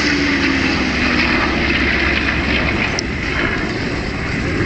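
A Rolls-Royce Avon-powered Sabre jet and a P-51 Mustang flying past together in line astern: a loud rush of engine noise, with a tone that falls in pitch over the first second or so as they pass.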